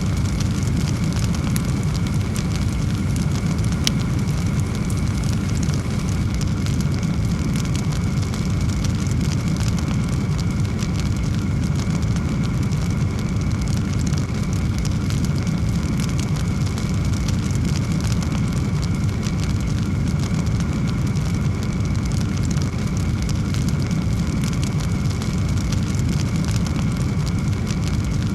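Burning firewood crackling over a steady low roar of flame, with many small, irregular pops scattered throughout.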